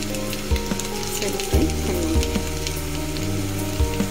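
Steamed rawa idlis sizzling in hot oil in a pan, with a mustard-seed and curry-leaf tempering crackling around them. Steady background music with low notes plays underneath.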